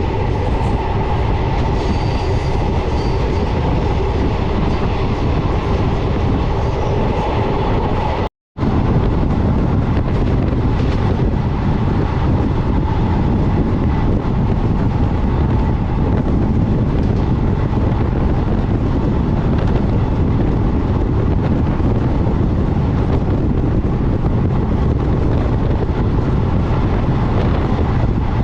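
Passenger train running on the line: a steady rumble of wheels on rail with clickety-clack. About a third of the way through, the sound drops out completely for a moment and then carries on.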